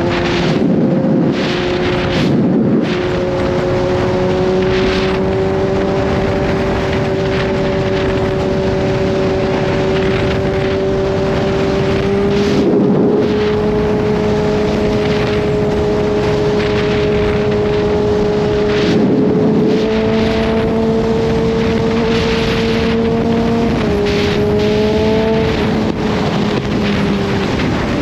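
Kawasaki Z H2's supercharged inline-four cruising at a steady, light throttle, its note slowly climbing. The note is broken several times by brief throttle changes or gear shifts, with a short rise in pitch and a drop near the end. A steady rush of wind and road noise lies beneath.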